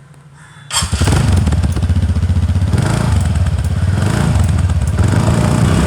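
Motorcycle engine running close to the microphone, starting suddenly about a second in and carrying on at a steady, loud level as a rapid, even low pulsing.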